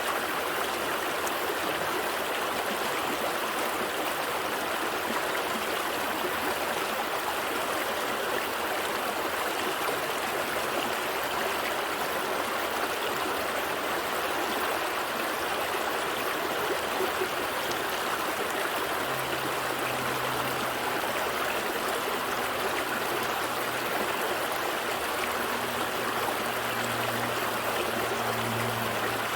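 A gentle stream flowing steadily, an even rush of water with some trickling.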